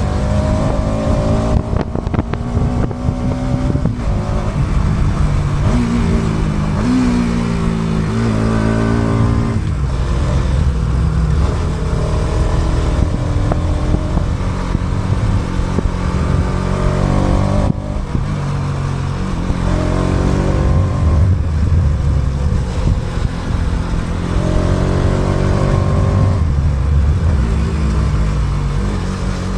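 Motorcycle engine running under way, its pitch rising and falling several times as the rider accelerates and changes speed. Recorded on the bike through an action camera's built-in microphone, with no external mic.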